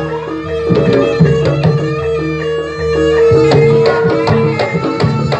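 Javanese jaranan (kuda lumping) dance accompaniment music: hand-drum strokes over short repeating pitched notes and one long held note.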